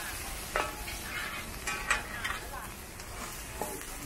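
Egg sizzling in oil on a wide, flat metal pan while two metal spatulas scrape and stir it, with a few sharp clacks of spatula on pan.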